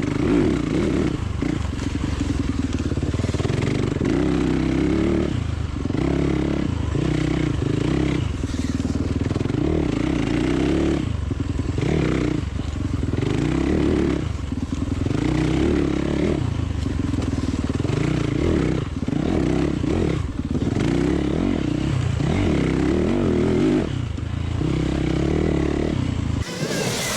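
Gasoline dirt bike engine being ridden hard, revving up and dropping back again and again every second or two. The sound changes abruptly near the end.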